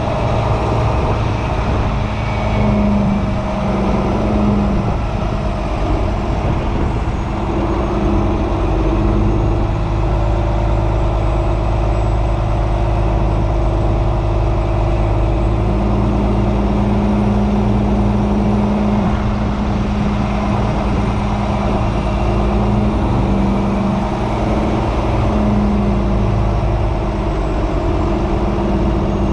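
Semi truck's diesel engine running steadily with a low rumble, its pitch shifting slightly now and then.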